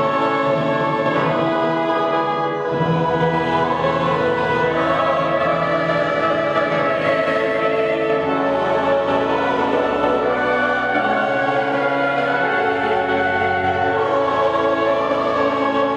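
Choir singing with orchestral accompaniment, in held, sustained chords.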